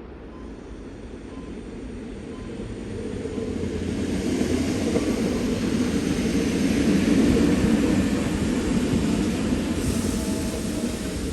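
Train approaching and going by on the tracks, a rumbling rail noise that builds steadily for several seconds, peaks about two-thirds of the way through, then eases slightly.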